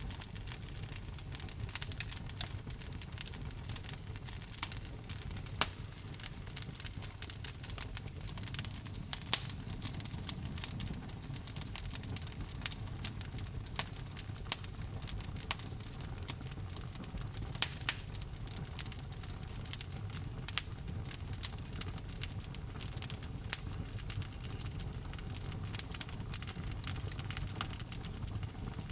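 Wood log fire in a fireplace crackling: irregular sharp pops and snaps, a few much louder than the rest, over a low steady rumble of the flames.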